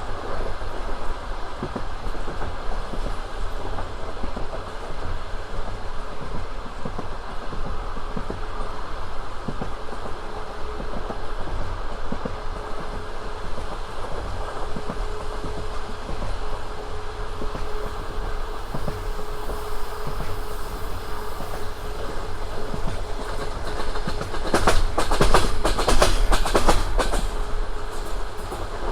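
Passenger train carriage running along the track with a steady rumble from the wheels. Near the end comes a burst of loud, rapid clacking of the wheels over the rails, lasting about three seconds.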